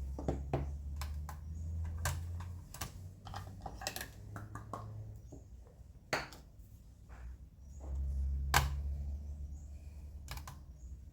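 Irregular clicks and knocks of a plastic bottle and container being handled while homemade hair conditioner is filled into the bottle, over a low rumble that comes and goes.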